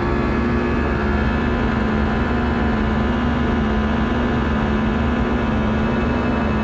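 Airbus A319 in flight heard from inside the cabin: a steady drone of engine and airflow noise with a constant low hum and faint high whining tones from the jet engines.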